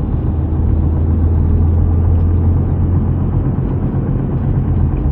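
Big-turbo Audi B5 heard from inside the cabin while cruising: a steady low engine drone under tyre and road noise, holding an even pitch.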